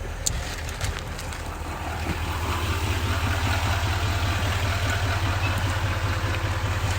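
Pickup truck engine running with a steady low hum that grows louder about two seconds in, then holds even. A few light clicks sound near the start.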